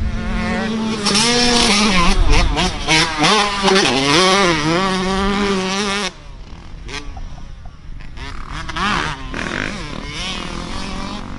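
Dirt bike engine running close, its pitch wavering up and down as the throttle changes. About six seconds in it cuts off abruptly to quieter, more distant dirt bike engines revving.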